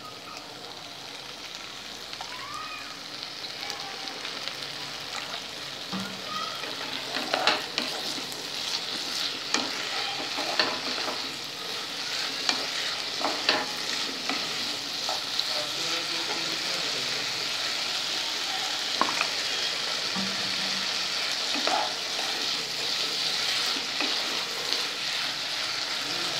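Prawns and vegetables sizzling and steaming in a hot kadai after a little water is added, the hiss growing louder over the first several seconds. A spatula scrapes and knocks against the pan now and then as the mixture is stirred.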